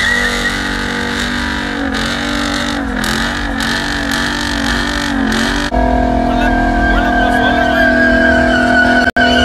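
Vehicle engines running with steady, slightly wavering tones, typical of trucks idling and revving. The sound changes abruptly a little past halfway, as at an edit.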